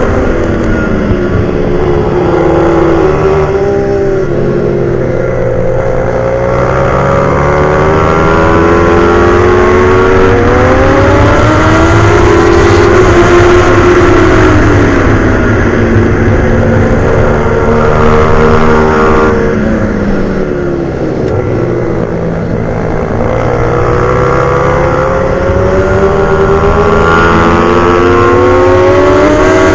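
Pit bike's single-cylinder engine revving hard through the gears on a race track, its pitch rising on the straights and dropping for the corners several times over.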